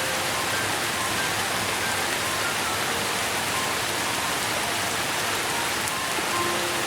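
Steady rain falling, an even hiss with no break. Faint short tones sound through it now and then, a longer lower one near the end.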